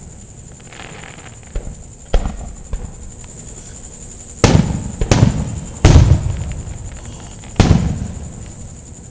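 Aerial fireworks shells bursting overhead: five loud booms, each with a rolling rumble after it, the strongest about six seconds in, with lighter crackles between them.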